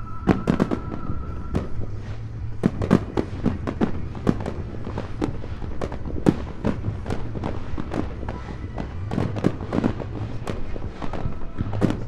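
Aerial fireworks shells bursting in a rapid, irregular barrage of booms and cracks, several a second and overlapping throughout.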